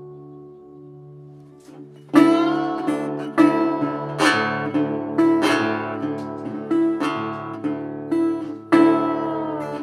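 Acoustic guitar music: a held chord fades for about two seconds, then chords are struck every half second or so, each ringing on.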